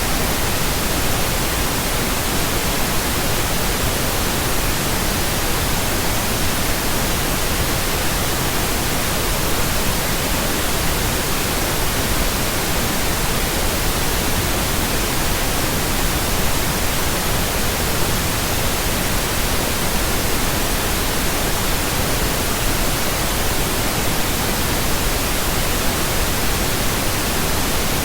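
Steady, unchanging synthetic pink noise: an even hiss spread across the whole frequency range.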